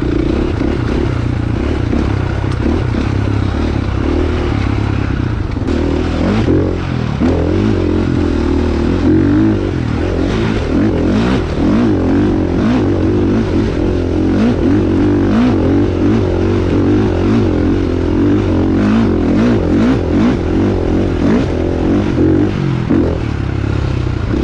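Dirt bike engine being ridden on a trail, the revs steady at first and then rising and falling over and over from about six seconds in as the throttle is worked, with frequent knocks and clatter from the ride.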